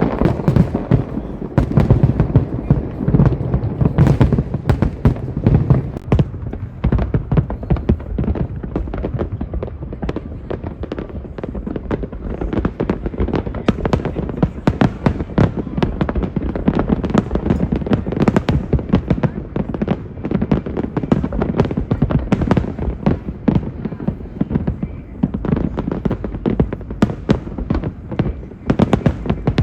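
Fireworks display: a dense, unbroken run of shell bursts and crackling, many bangs a second.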